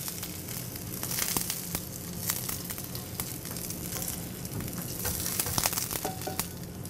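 Breaded rabbit pieces sizzling in hot fat in a nonstick skillet as they are browned crisp, with short clicks of the tongs against the pan now and then as pieces are lifted out.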